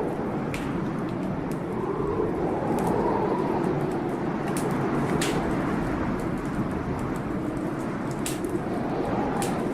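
Heavy blizzard wind blowing steadily in slow gusts that rise and fall in pitch, with a fireplace fire crackling in sharp, scattered pops.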